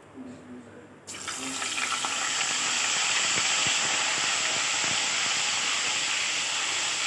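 Wet ground onion and ginger-garlic paste hitting hot oil with cumin, bursting into a loud, steady sizzle about a second in. Light scrapes of a steel spoon stirring the paste sound through the hiss.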